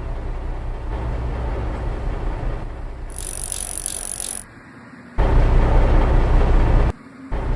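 Truck engine sound effect: a steady low engine rumble, with a short burst of high hiss about three seconds in. After a brief drop, a louder engine rumble starts, breaks off for a moment near the end and comes back.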